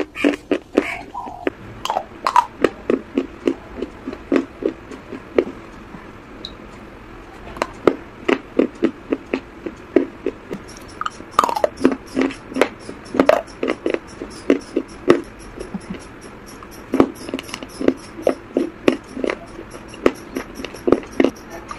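Close-miked mouth chewing, about two to three chews a second, softer and wetter in the first half and turning to sharp crunching bites of a hard, crunchy food from about halfway.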